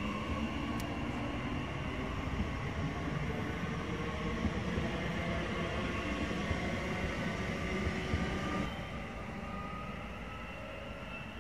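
A train pulling out of a station: a rumble of wheels and running gear with a whine of several steady tones that shift in steps, the 'singing' of the electric traction drive as it starts off. The sound drops noticeably about nine seconds in.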